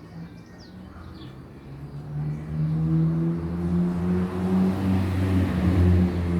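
A motor vehicle drives by: a low engine hum with tyre noise over it swells about two seconds in and stays loud near the end. Faint bird chirps at the start.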